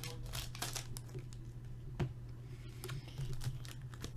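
Computer keyboard typing: scattered light key clicks at an uneven pace, over a steady low hum.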